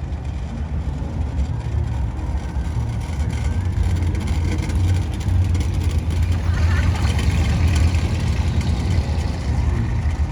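Car engine running with a deep, low rumble that grows louder from about four seconds in and eases off near the end.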